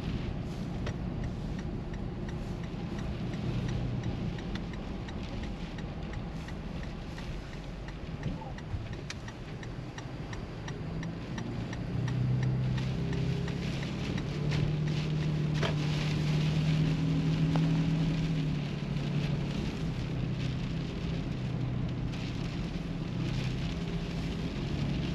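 Inside a moving car: steady engine and road hum, with many small irregular ticks of mixed rain and snow hitting the car. The hum grows a little louder about halfway through.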